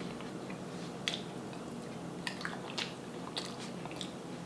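Close-up eating sounds: a person chewing food, with scattered wet mouth clicks and smacks.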